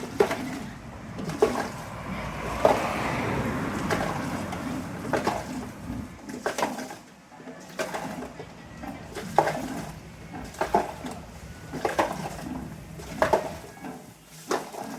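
Orange juice with ice being stirred in a glass: a spoon clinks against the side about every second and a half, with liquid swishing loudest between about two and four seconds in.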